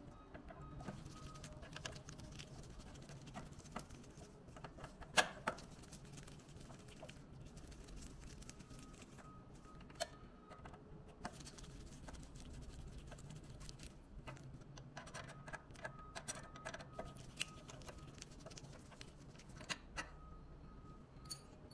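Faint small clicks and light scraping of a screwdriver and fingers working screws and the lamp fittings in a spectrophotometer's lamp housing, with one sharper click about five seconds in.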